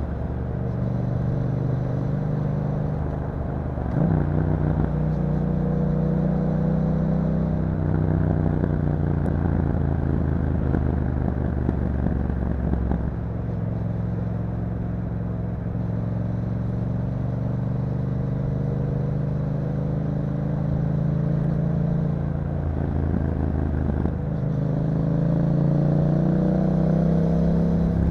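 2021 Yamaha MT-07's 689 cc parallel-twin engine through an Akrapovic exhaust, ridden on the road: the engine note climbs and drops several times as the rider works the throttle and gears, with a sudden change about four seconds in and a dip then a climb near the end.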